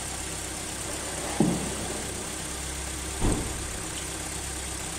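Suzuki Swift engine idling steadily with the coolant filler cap open, while the coolant is checked for compression bubbles, a test for a leaking head gasket. Two brief thuds stand out, about a second and a half in and again past three seconds.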